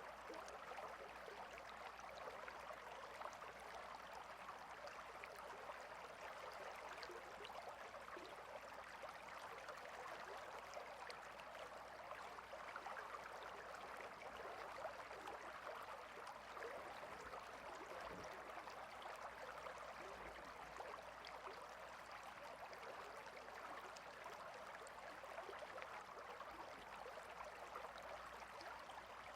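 Flowing water in a stream, babbling steadily, a faint even rush.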